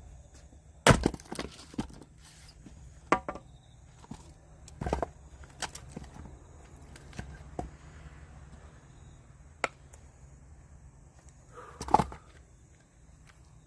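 Firewood being worked: a string of sharp, irregular wooden knocks and cracks, the loudest about a second in and again near the end.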